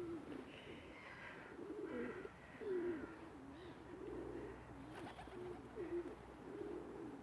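Pigeons cooing softly, in repeated low, wavering calls.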